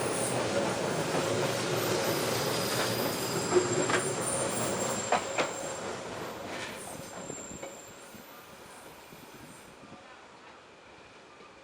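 Hanshin Railway electric train running on the rails, with faint high wheel squeal and a few sharp clicks from the wheels over rail joints, the sound fading away over the second half as the train moves off.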